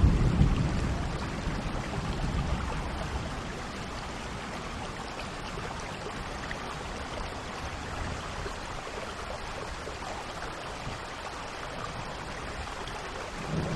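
Steady rain falling. A low rumble of thunder dies away over the first two seconds, and another rumble begins right at the end.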